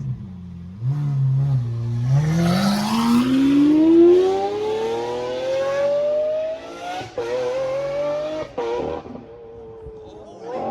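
A car engine pulling away under acceleration. It runs low at first, rises steadily in pitch for about four seconds, drops with a gear change about seven seconds in, climbs again briefly, then eases off to a steadier, quieter note.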